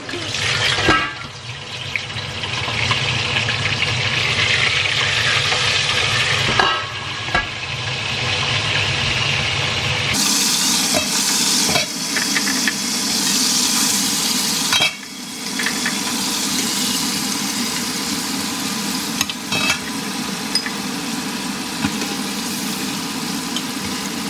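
Fish frying in hot oil in a wok: a steady, loud sizzle that gets brighter about ten seconds in, with a few sharp clicks of metal tongs and the lid against the pan.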